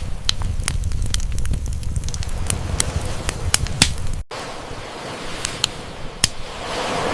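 Campfire crackling, with sharp pops scattered throughout over a low rumble. The sound drops out for an instant a little past halfway, and near the end a sea wave swells in and washes back.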